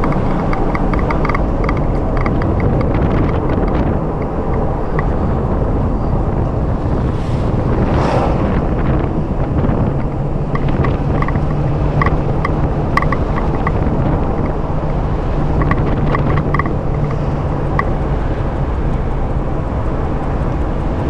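A car driving along a forest road: steady engine and road rumble with a low hum, and scattered small ticks and rattles.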